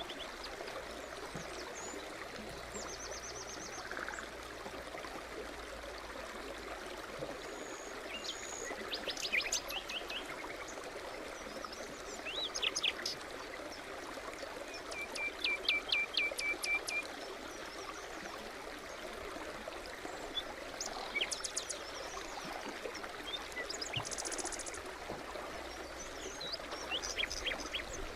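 A stream babbling steadily under songbirds singing short chirps and trills. The loudest bird phrases come about a third of the way in and again just past halfway, where a bird gives a quick run of repeated notes.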